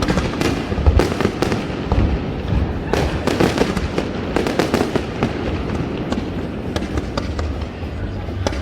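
Fireworks display: a rapid, continuous string of bangs and crackles with a low rumble from the aerial shells, heaviest in the first few seconds.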